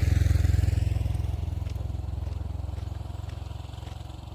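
A small motorcycle engine running with a fast, even pulse. It is loudest at the start and fades steadily.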